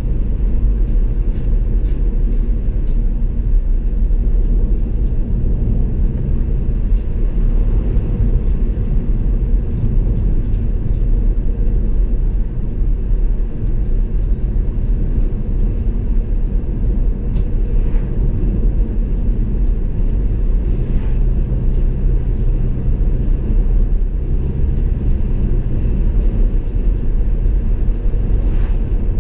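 Car driving on the road, heard from inside: a steady low rumble of engine and tyres on the road surface.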